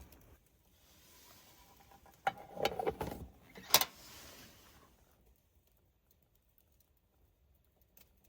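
A short clatter of metal cookware, several clinks together about two seconds in, then one sharp clink just under four seconds in.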